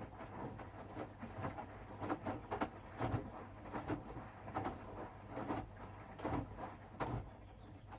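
Hoover front-loading washing machine tumbling a wash: wet bed linen sloshing and splashing in the turning drum in irregular surges, over a steady motor hum.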